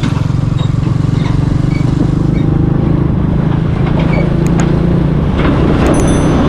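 Honda C50 moped's small single-cylinder engine running steadily under way, with a large lorry's engine close alongside as the bike overtakes it. The engine note shifts about five seconds in.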